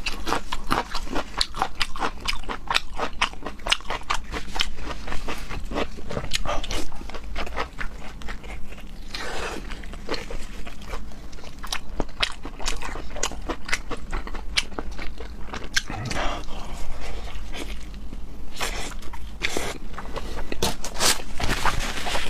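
Close-miked chewing and eating: a dense run of quick wet mouth clicks and smacks, with a few longer slurping or sucking sounds along the way.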